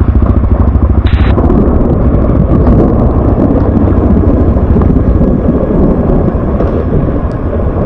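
Off-road motorcycle engine running, loud and close, with fast even firing pulses that turn rougher after about a second.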